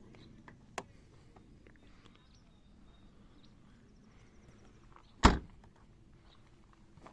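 A vehicle door shut with one heavy thump about five seconds in, after a small click about a second in, over low background noise.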